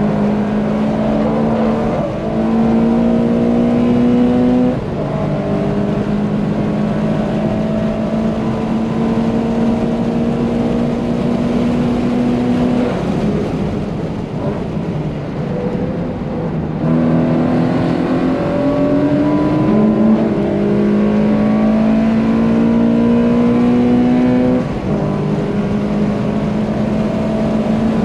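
Subaru BRZ's naturally aspirated flat-four, with a catless exhaust and aftermarket header, running hard at high revs, heard from inside the cabin. Its pitch climbs steadily for several seconds at a time and steps down in pitch and loudness about five seconds in and again near the end. It eases off briefly in the middle before pulling again.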